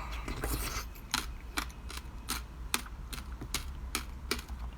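Ice being crunched between the teeth, close to the microphone: sharp, crisp crunches at a fairly even pace of about two to three a second.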